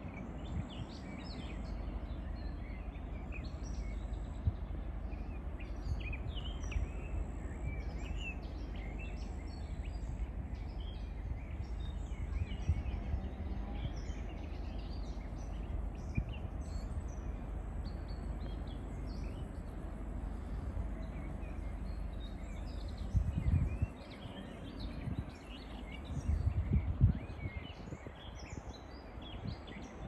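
Small birds chirping and singing in the trees, many short calls throughout, over a steady low rumble that swells twice near the end.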